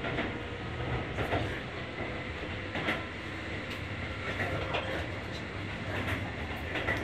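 Running noise inside a Keihan 8000 series electric train carriage: a steady rumble with irregular clicks of the wheels over rail joints, about one a second, as the train runs towards its next station.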